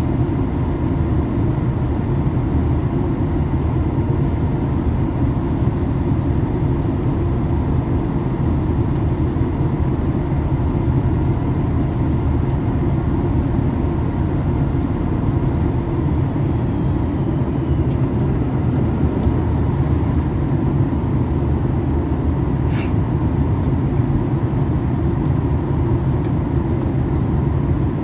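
Steady cabin noise inside a Boeing 737 MAX 8: an even, low rumble of airflow and engines. Once, late on, there is a brief click.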